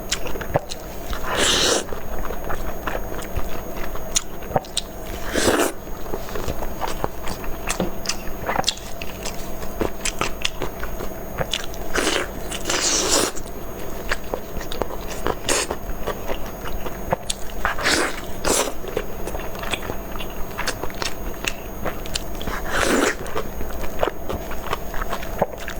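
Close-miked eating sounds: a person biting and chewing food, with many small wet clicks and a louder bite every few seconds.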